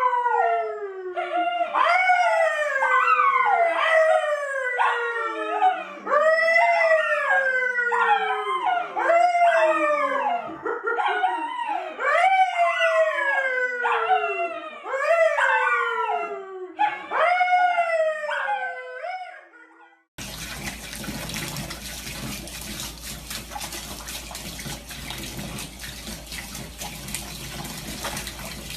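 A dog howling over and over, about a dozen long calls that each start high and slide down in pitch. After about twenty seconds it cuts off suddenly to a steady rushing noise.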